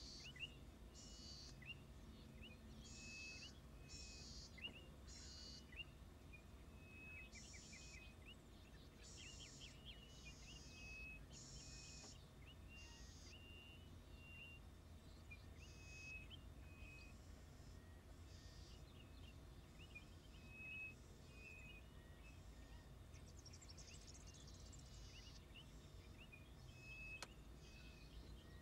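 Faint high chirps and short whistled notes of small birds, repeated many times, alongside short high buzzy bursts about a second apart, over a steady low background rumble.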